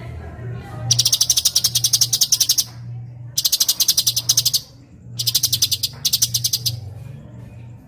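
Cucak cungkok singing three bursts of rapid, tightly packed chattering trills, each about a second and a half long, with short pauses between them. A steady low hum runs underneath.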